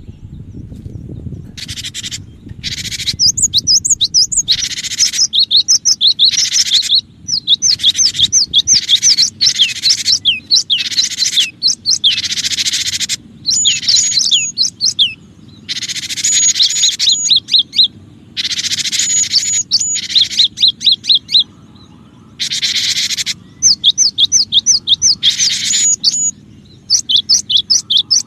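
Cinereous tit (gelatik batu) calling busily: quick runs of sharp whistled notes alternate with harsh, buzzy scolding chatter, in bursts broken by short pauses.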